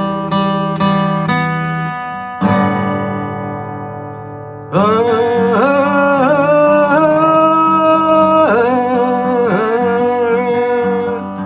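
Acoustic guitar song: strummed chords, then a chord struck and left to ring out. About five seconds in, a loud, long-held melody line with gliding, wavering notes comes in over the guitar.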